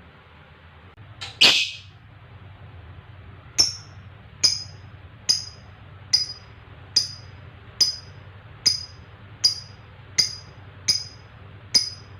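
Lovebird calling: one loud, shrill call about a second and a half in, then a long run of short, sharp chirps, each dropping in pitch, repeated evenly a little faster than once a second.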